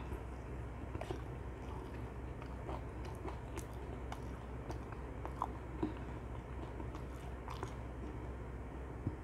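Close-miked chewing of dakgangjeong, sticky-glazed Korean fried chicken: irregular soft crunches and small wet mouth clicks over a steady low hum.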